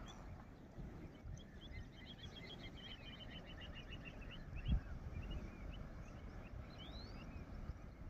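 A bird's rapid trill of short high chirps, about eight a second and slowly falling in pitch, starting about a second and a half in and lasting about three seconds, with a few scattered chirps later. Under it a steady low rumble, and one dull thump about halfway through.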